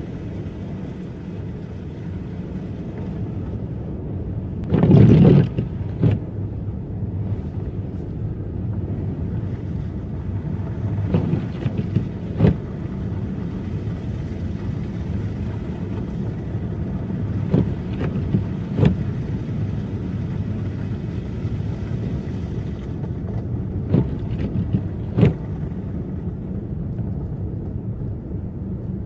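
Car driving on snowy roads: a steady low rumble of engine and tyres, with a louder thump about five seconds in and a handful of short knocks after it.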